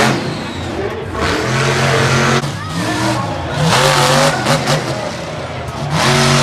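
Monster truck engine revving hard in repeated surges, its pitch climbing and dropping several times.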